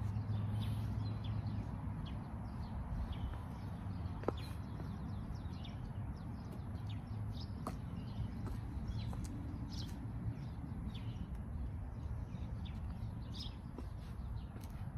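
Small birds chirping in short, scattered calls over a low, steady rumble of outdoor background noise.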